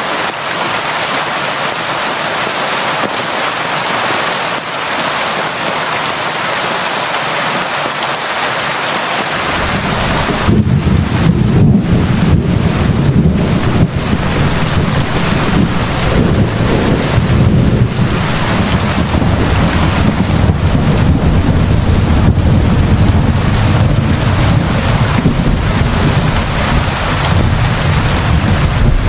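Steady heavy rain falling, a dense even hiss. About a third of the way in, a deep low rumble sets in abruptly and keeps going under the rain.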